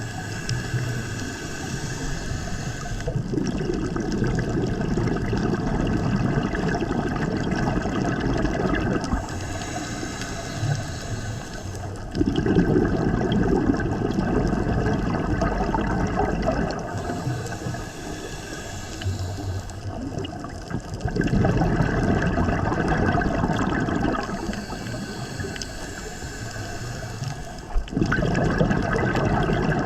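Scuba diver breathing through a regulator underwater: a hiss of about three seconds as air is drawn in, then a longer bubbling, gurgling exhale, repeating in an even cycle about every eight or nine seconds.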